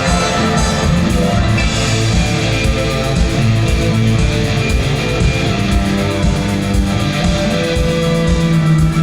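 Symphony orchestra and rock band playing live: strummed electric guitar over a steady drum beat, with held orchestral notes.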